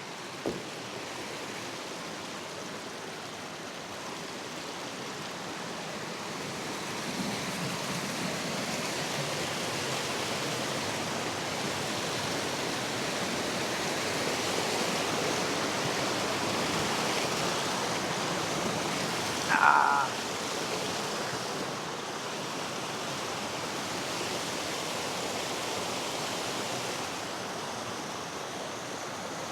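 River water rushing steadily over rocks, growing a little louder after several seconds. A short high-pitched call cuts in about two-thirds of the way through.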